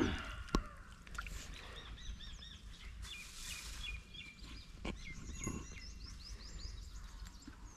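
Small birds chirping in quick series of short repeated notes, over a steady low rumble, with a single sharp click about half a second in.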